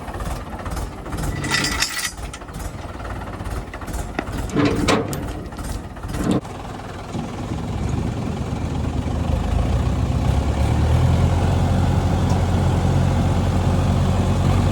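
Tractor engine running, with a few knocks and clanks in the first half. Then the engine grows louder and holds steady at a low, even pitch.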